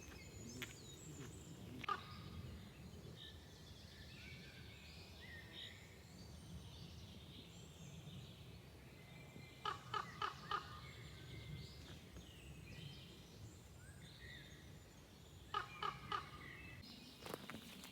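Faint woodland birdsong goes on throughout. Twice, about ten seconds in and again near the end, a louder bird call of four or five quick repeated notes stands out.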